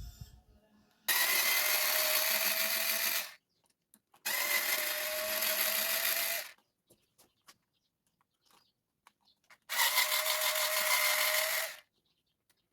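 Small electric screwdriver whirring in three runs of about two seconds each as it backs out the RC truck's chassis screws, with a steady motor whine in each run.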